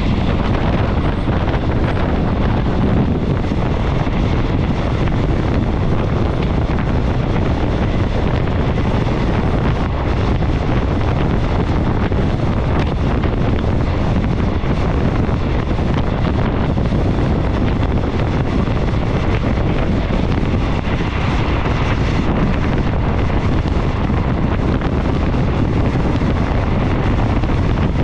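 Wind buffeting a microphone held out of a moving passenger train's window, over the steady rumble of the train running along the track.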